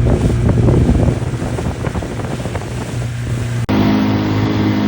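A motorised watercraft's engine running steadily at speed, with water splashing and wind buffeting the microphone. About three-quarters of the way through it cuts abruptly to another stretch of steady engine drone.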